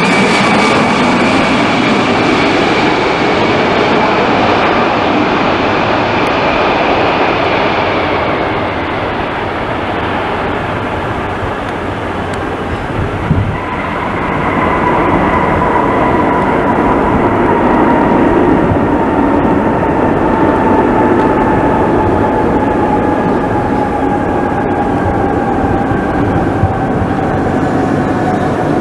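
Boeing 747-400 freighter's four jet engines running loud during a landing, with whines that fall slowly in pitch. A brief thump comes about halfway through, after which the noise swells and a stronger whine comes up and slowly sinks.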